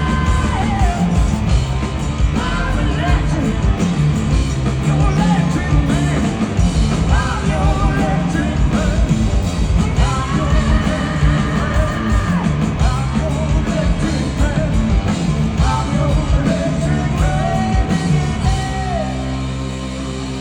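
Rock band playing live, loud drums and guitars with a singer's wailing vocal line; near the end the drums drop away and a chord rings on.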